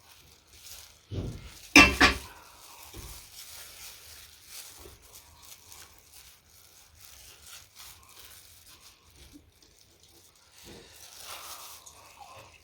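Someone chewing food, octopus and salad, with faint scattered wet clicks and crackles, and one loud short sound about two seconds in.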